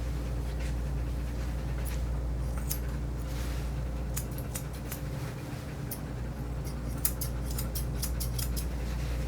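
Grooming shears snipping through a dog's coat in quick irregular runs of sharp clicks, over a steady low hum.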